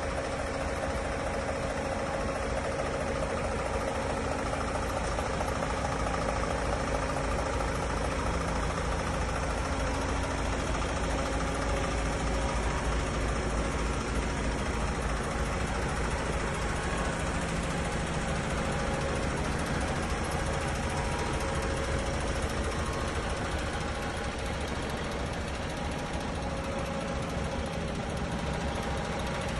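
DAF XF106 480 truck's PACCAR MX-13 six-cylinder diesel engine idling steadily.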